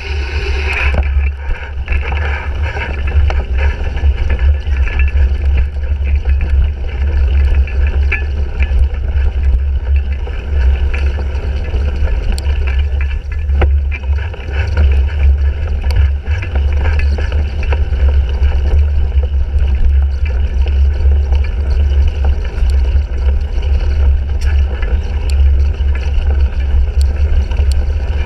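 Heavy, steady wind rumble on a bike-mounted action camera, a GoPro Hero 3, while a 2017 Fuji Jari 1.5 cyclocross bike is ridden at race pace over rough ground, with scattered sharp clicks and rattles throughout.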